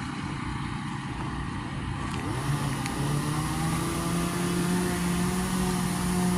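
An engine running. About two seconds in it rises in pitch, then holds a steady tone.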